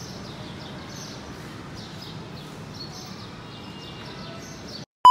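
Small birds chirping over and over, short high falling calls, over a steady low background noise; the sound cuts off abruptly near the end.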